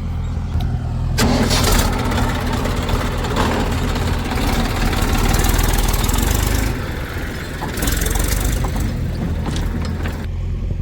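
Diesel engine of heavy earthmoving machinery running steadily. From about a second in until just before the end, a loud rough rushing noise of the machine working sits over it.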